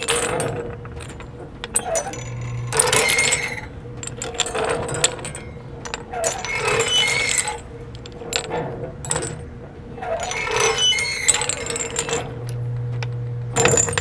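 Metallic clinking and jingling in clusters that recur about every two seconds, over a steady low tone and hum, part of a sound art installation's soundscape.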